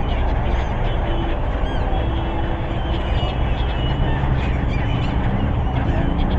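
Seagulls calling, many short high calls overlapping, over a loud steady wash of background noise.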